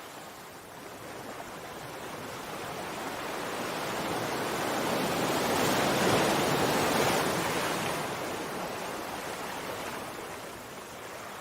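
Sea surf: one long wave swell of rushing water that builds slowly to a peak about halfway through, then draws back and fades.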